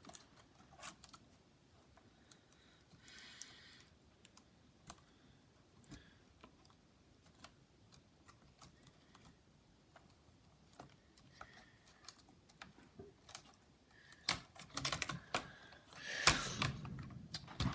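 Faint, scattered light clicks and taps of small plastic laptop parts and cable connectors being handled. The clicks grow denser and louder near the end, with a short rustling scrape.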